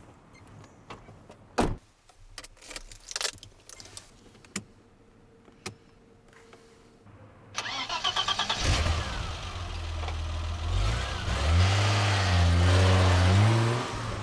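BMW E30's engine being started: a few sharp clicks and knocks, then the starter cranks about seven and a half seconds in and the engine catches about a second later. It runs and is blipped, its pitch rising and falling a few times near the end.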